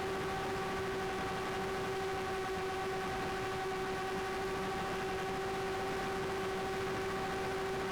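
Drone propellers whirring at a steady pitch: an even hum with a higher whine over a hiss, unchanging throughout.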